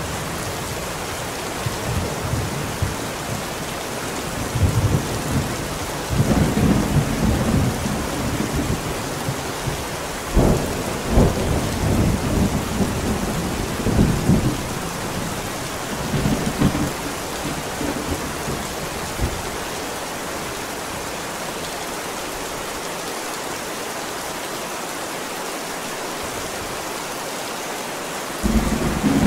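Steady heavy rain with rolling thunder: a long low rumble swells from a couple of seconds in, with a sharper crack about ten seconds in, and dies away before the twenty-second mark, leaving rain alone. Another thunder rumble begins just before the end.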